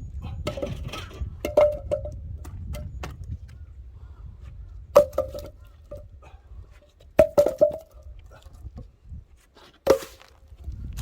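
Cut branches of firewood knocking together as they are tossed onto a load: several separate sharp knocks, each with a short ring. The loudest come about five, seven and ten seconds in, over a low rumble that dies away near the end.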